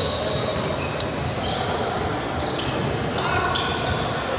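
Gym ball-game sound: a ball striking or bouncing several times and sneakers squeaking on the court from about three seconds in, over echoing crowd chatter in a large hall.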